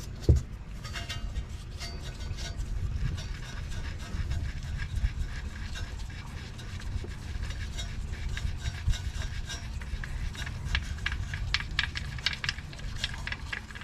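Hand tools and a bolt being worked on a manual transmission case: light, irregular metallic clicks and rattles, coming thickest in the last few seconds, over a steady low rumble.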